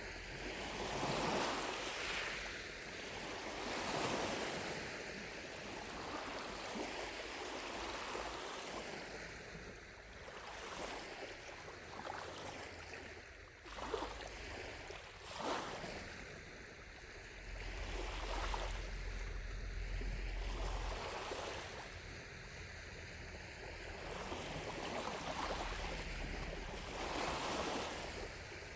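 Small lake waves lapping at the shore, a soft wash every couple of seconds, with two sharper little splashes about halfway through.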